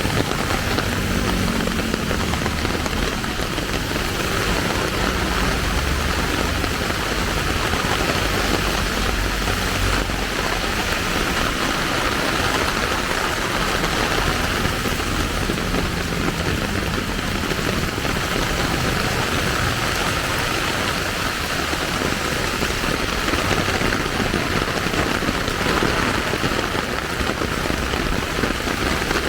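Steady rain falling and splashing on surfaces, with the low rumble of a vehicle engine that is strongest in the first third and then fades.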